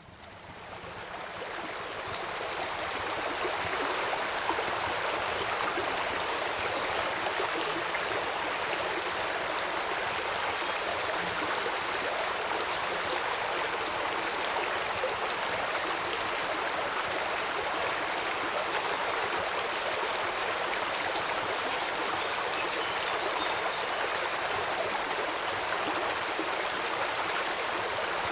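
Steady rushing of a flowing stream, fading in over the first few seconds. Faint short high chirps come in near the middle and repeat about once a second near the end.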